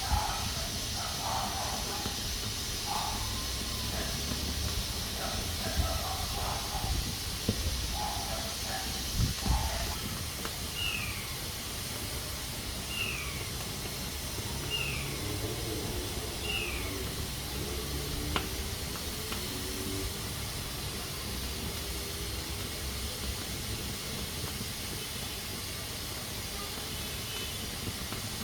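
Pressure cooker hissing steadily as it vents steam while at pressure. Faint animal calls come through in the first half, then four short falling chirps mid-way.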